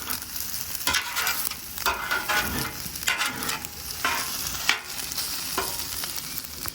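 Chicken fried rice sizzling on a Blackstone flat-top griddle, with a spatula scraping and stirring it in repeated strokes about once a second over the steady sizzle.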